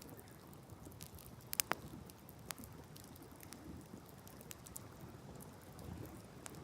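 Wood campfire burning on open ground, crackling with scattered sharp pops over a low steady rumble; the loudest pair of pops comes a little under two seconds in.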